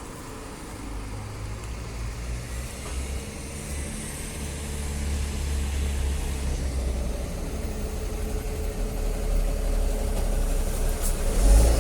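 A motor vehicle's engine running: a low, steady rumble with a faint constant hum above it, growing gradually louder toward the end.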